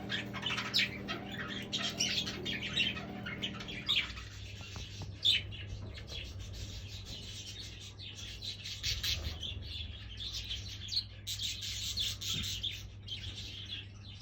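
A group of budgerigars chattering with quick high chirps and warbles.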